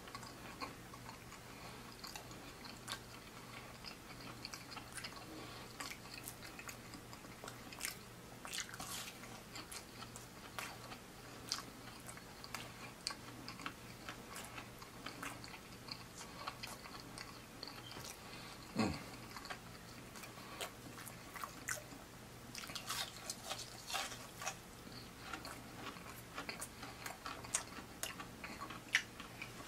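Close-up mouth sounds of a person biting and chewing fried battered food: a run of wet clicks and light crunches that come thicker in two stretches. About two-thirds of the way through there is one short low sound that drops in pitch.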